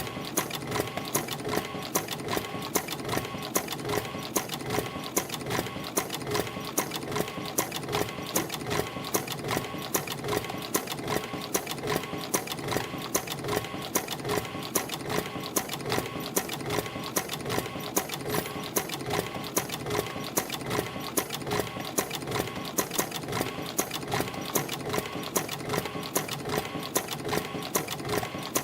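CNC extension spring machine (EF-210-W.D) running, coiling 0.4 mm wire into extension springs with English-style hooks at about 80 a minute. A steady mechanical whirr with a sharp click at an even rhythm, a little more than one a second.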